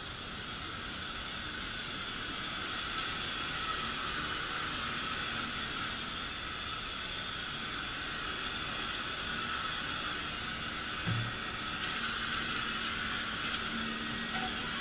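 Vacuum cleaner running steadily, a continuous whirring rush, with one brief low thump about two-thirds of the way through.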